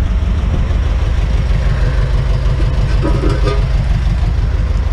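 Truck engine running steadily with a deep, even low rumble.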